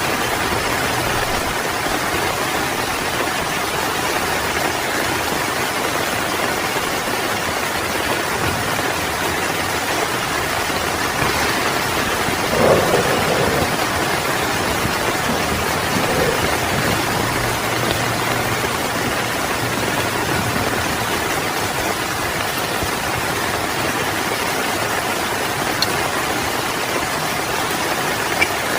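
Heavy rain falling steadily, with a brief louder patch about halfway through.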